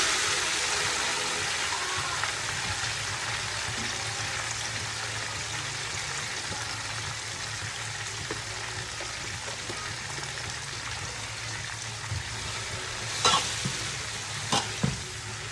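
Seasoned onions sizzling in hot frying oil just after being tipped into the pot, a steady hiss that slowly dies down. A few sharp knocks of a utensil against the pot near the end.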